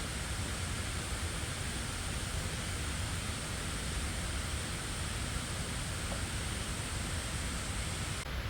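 A steady, even hiss, its highest part cutting off suddenly near the end.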